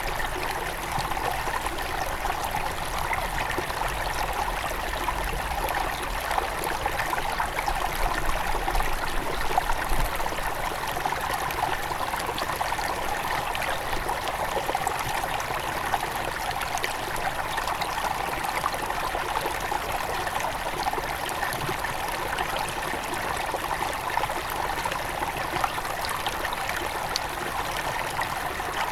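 A forest river near its headwaters, flowing with a steady rush of water. A low rumble lies under it for about the first ten seconds.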